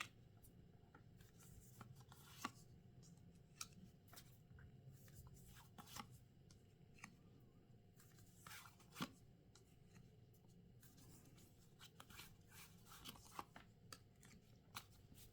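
Tarot cards being handled and laid out on a table: faint scattered taps and flicks, with a few sharper clicks spread through.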